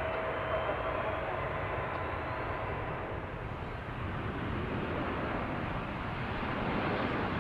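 Airplane engines running with a steady rushing rumble, growing a little louder near the end.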